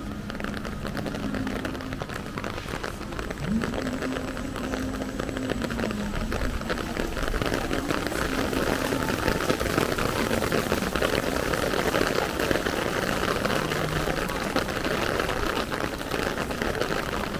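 Rain falling steadily on wet pavement and shopfronts, an even hiss that grows louder about seven seconds in as the shower gets heavier.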